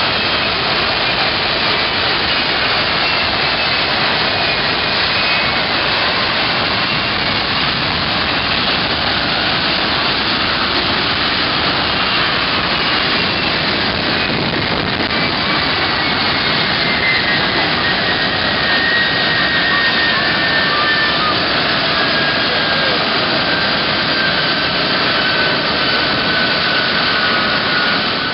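Boeing C-17 Globemaster III's four turbofan engines running loud and steady, with a high turbine whine sliding slowly down in pitch.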